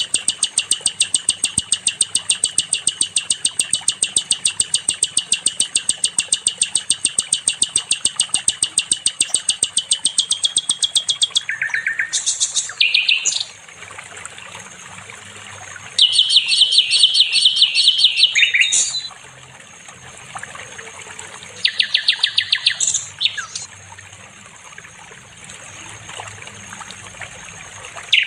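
A songbird singing: a long run of fast, evenly repeated high notes lasting about eleven seconds, then a few short phrases and two bursts of rapid trilling with pauses between them.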